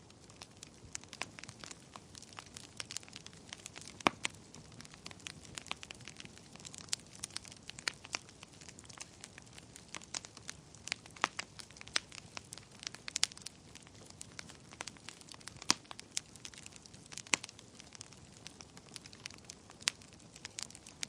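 Wood fire burning in a fireplace, crackling with frequent irregular sharp pops over a soft hiss of flames.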